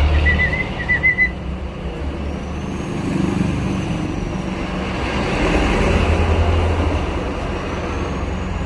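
Low rumble of a motor vehicle engine running close by, swelling at the start and again about six seconds in, with a short run of warbling chirps in the first second.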